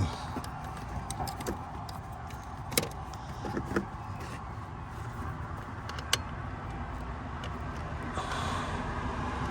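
Scattered light clicks and taps of tools and parts being handled under the hood, a sharp click about six seconds in, over a steady background hum.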